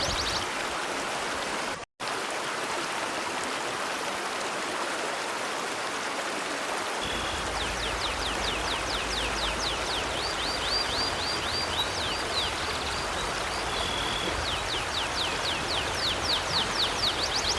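River water flowing steadily. From about seven seconds in, a bird sings rapid runs of high, falling chirps. All sound cuts out for an instant about two seconds in.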